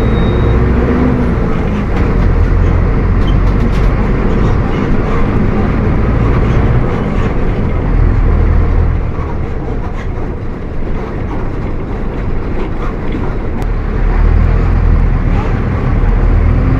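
Mercedes-Benz OF 1722M bus's diesel engine running under way, its note rising and falling with the throttle. It eases off for a few seconds midway, then pulls harder again near the end.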